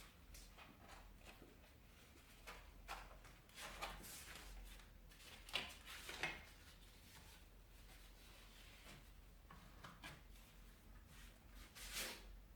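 Faint scattered clicks, knocks and rubbing of metal parts being handled and refitted on a homemade belt grinder that is switched off, over a low steady hum.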